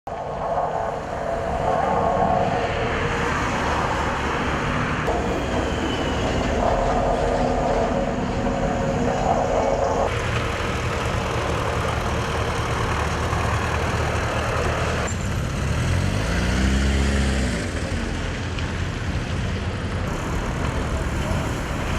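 Heavy road-repair vehicles and trucks running, in a string of short shots that change abruptly; about 16 seconds in, one engine revs up and falls back.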